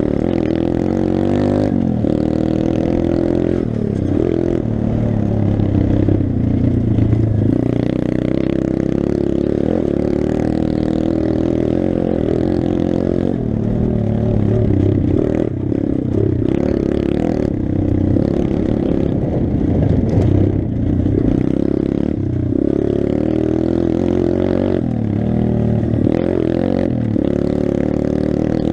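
Pit bike engine running under riding load, revving up and easing off again and again so its pitch keeps rising and falling, with some clatter over it.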